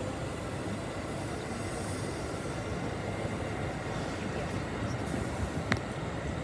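Train running along the tracks, a steady rumble of wheels on rail, with one sharp click near the end.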